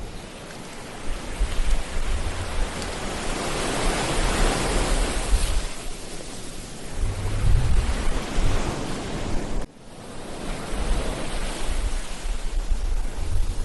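Ocean surf washing on a beach, the hiss of the waves swelling and easing, with low wind buffeting on the microphone. The sound drops out sharply for an instant about ten seconds in.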